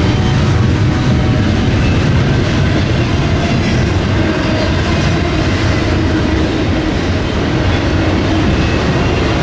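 Freight train cars rolling past close by, a loud, steady rumble and rattle of steel wheels on the rails.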